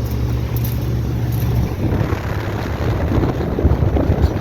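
2005 Ruud 3.5-ton straight-cool condensing unit running, with a steady low hum from its Copeland scroll compressor. About two seconds in the hum turns rougher, with a fluttering, noisy rumble joining it.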